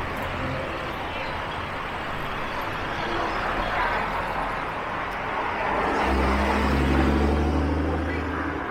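Street traffic. A motor vehicle passes close with a low engine hum, loudest from about six seconds in, then cuts off near the end.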